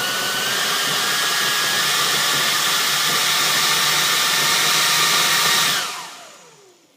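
Left electric motor of an RC Airbus A330 model running at less than half throttle with a steady whine that steps up in pitch during the first second or so. About six seconds in it is throttled off and winds down with a falling whine. The motor shakes a lot, which the owner takes for motors that need to go back to the maker for bench checks.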